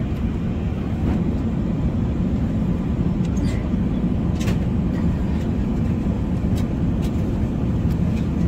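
Steady cabin noise of an Airbus A380 airliner in flight, with a few faint clicks through it.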